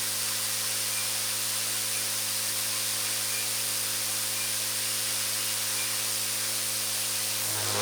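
Electric RC helicopter's motor and rotor running steadily at low throttle: an even airy hiss over a constant low hum.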